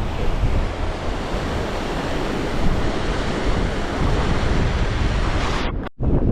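Loud, steady wind rushing over the microphone, the kind of buffeting from a moving vehicle or a breeze outdoors. It drops out suddenly for a moment near the end.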